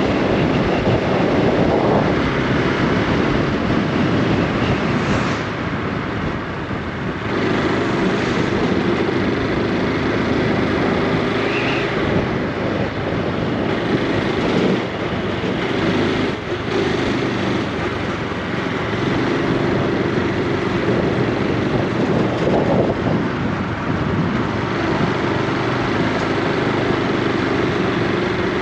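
Honda Super Cub C125's single-cylinder four-stroke engine running under way, its exhaust note easing off about five seconds in and picking up again, over steady wind and road noise.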